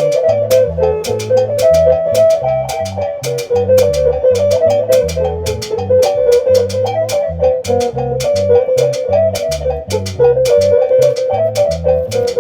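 Band playing an instrumental passage: a lead melody line over a bass line and a drum kit, with cymbal strokes about four times a second.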